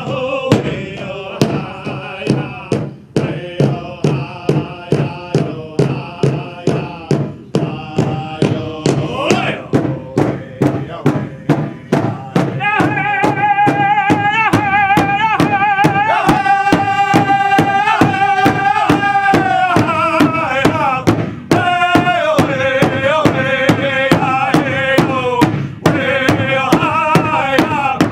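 Pow-wow drum and singers: a drum beaten in a steady beat, about two or three strokes a second, under men singing a chant. The singing grows louder and fuller about twelve seconds in.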